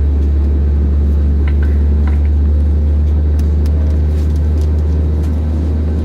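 Steady low drone of an Airbus A320neo airliner's cabin, with a few faint clicks.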